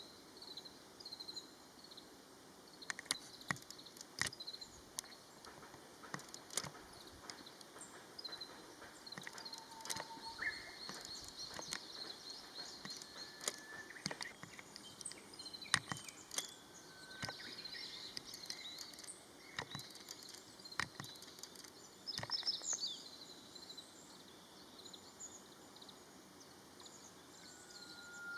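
A flock of long-tailed tits calling with many short, high, thin chirps and twitters, with scattered sharp clicks among them.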